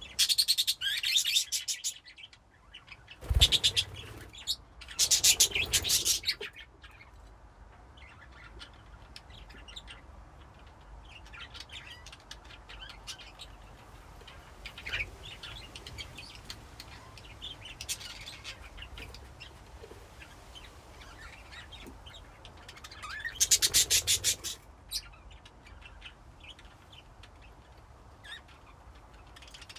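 Budgerigars in a colony cage chirping and chattering. Loud bursts of rapid chatter come at the start, twice more in the first seven seconds and once more later, with softer scattered chirps between. A brief thump comes a few seconds in.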